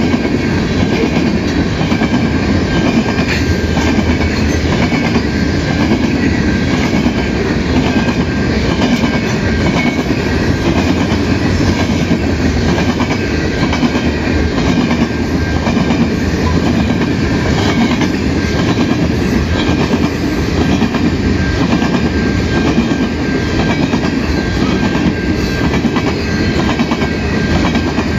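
Freight train of covered hopper cars passing at speed: a steady rolling rumble with a regular clickety-clack of wheels over the rail joints, and a faint steady high whine running under it.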